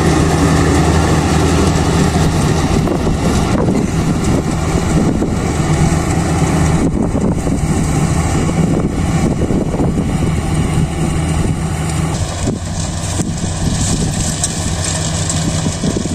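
Kubota DC-35 combine harvester running steadily at work: a diesel engine's even hum under a dense rush of machinery noise.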